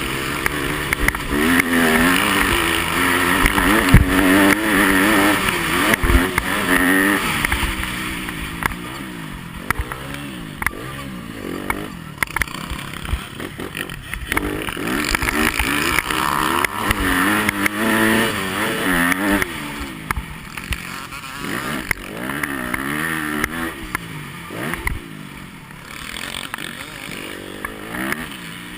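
Yamaha motocross bike's engine, heard up close from an onboard camera, revving up and dropping back again and again as it is ridden hard round the track, with frequent knocks and clatter from the bumps.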